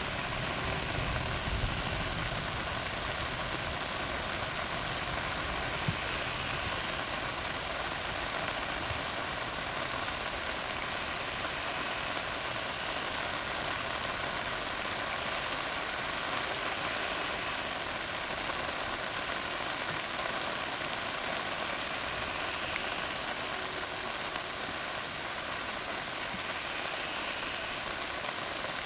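Steady rain falling on a tar road, an even patter with a few sharper single drop splashes.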